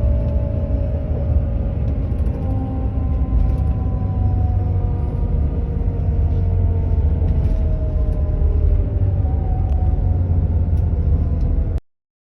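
Intercity bus running on the highway, heard from inside the cabin: a steady low rumble of engine and road, with the engine's tones slowly falling in pitch. The sound cuts off suddenly near the end.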